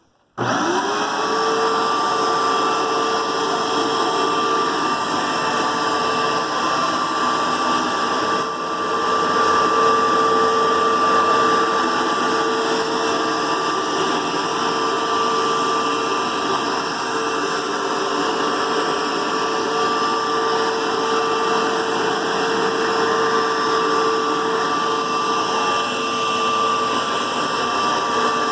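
A 2004 Dirt Devil Featherlite vacuum is switched on. Its motor spins up within half a second to a steady high whine over rushing air, and it keeps running. About eight seconds in the sound dips briefly.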